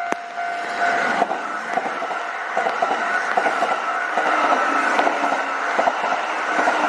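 Kintetsu train passing over a level crossing with a steady rushing noise that swells about a second in, while the crossing's warning bell keeps ringing with repeated strikes.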